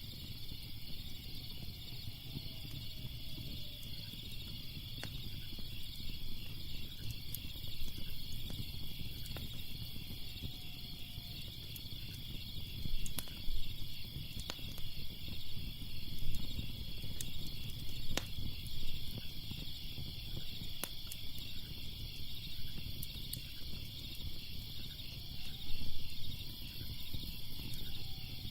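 A crackling fire giving irregular sharp pops and snaps over a low rumble, with a steady chorus of chirping crickets behind it.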